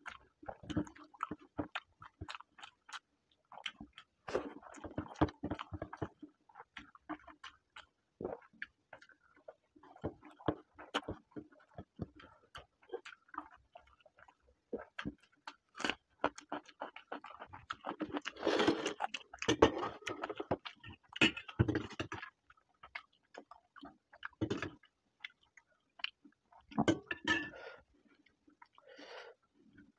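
Close-up chewing and mouth smacking of a man eating rice and egg curry by hand: a steady stream of irregular sharp clicks and smacks, busiest a little past the middle.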